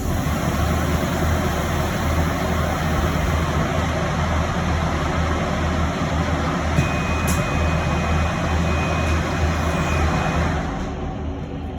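Electric bus in motion, heard from inside the cabin: steady road and tyre noise over a low hum. A thin high whine joins in from about seven to ten seconds in, and the noise eases off near the end.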